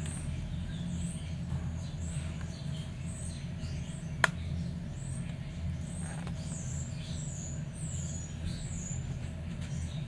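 Birds chirping in short, high-pitched notes, about one or two a second, over a steady low hum, with one sharp click about four seconds in.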